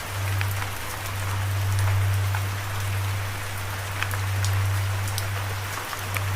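Steady rain, an even hiss with scattered sharp drop ticks, over a low steady hum that slowly swells and fades.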